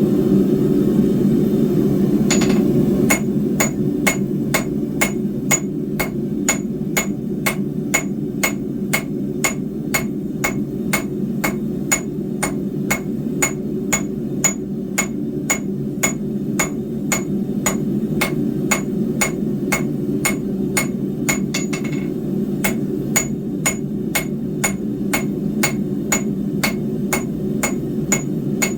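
Hand hammer striking a 3/8 inch square steel bar on an anvil in a steady rhythm of about two and a half blows a second, each blow ringing. A short break comes about three quarters of the way through, then the hammering continues. A steady low roar from the forge runs underneath.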